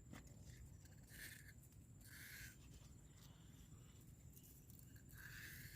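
Near silence: faint outdoor background with three soft, short noises about one, two and five seconds in.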